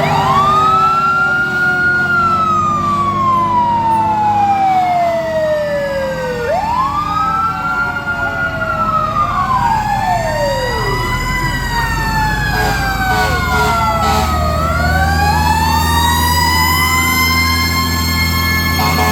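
Several fire truck sirens wailing at once, overlapping, each climbing quickly in pitch and then falling slowly, over the steady low rumble of the trucks' engines.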